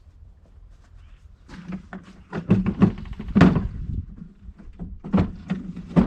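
A run of heavy clunks and knocks, several close together, the loudest about two to three and a half seconds in and another pair near the end: the engine and its mounting hardware being handled onto the compressor's mounting plate.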